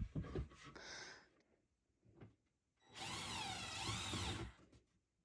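A few light knocks of wood being handled, then a power drill runs for about a second and a half, its pitch rising and falling.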